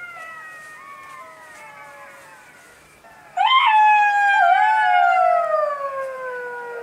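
Jackals howling: several fainter overlapping howls sliding down in pitch, then about three seconds in one loud howl that jumps up sharply and falls slowly in pitch over some three seconds.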